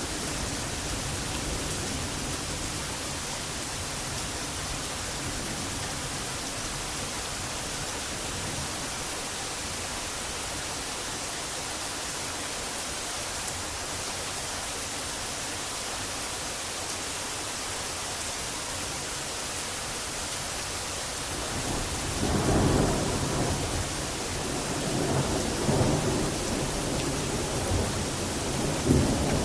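Steady heavy rain hissing; about two-thirds of the way through, thunder begins rumbling in rolling swells that rise and fall, with a sharper crack near the end.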